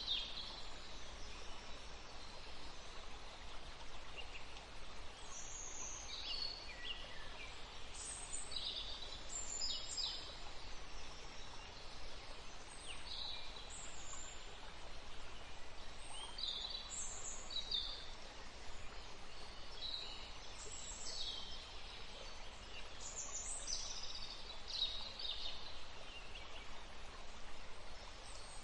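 Songbirds chirping and singing in short, high phrases, one after another throughout, over a steady background hiss.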